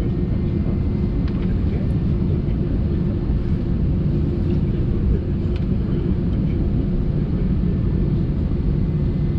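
Steady low hum in the passenger cabin of an Airbus A319 airliner, with a few faint clicks.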